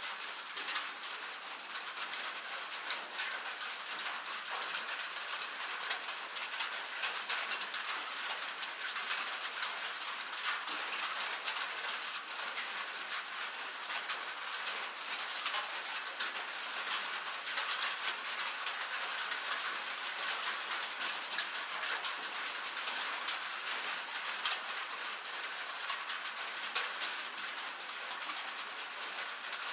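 Steady rain falling on a metal roof: a dense, even hiss of countless small, sharp drop taps.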